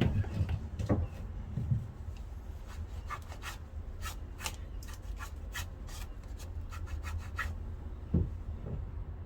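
A run of sharp, irregular clicks and light knocks lasting several seconds, with a few dull thumps at the start and one near the end: tools and engine parts being handled.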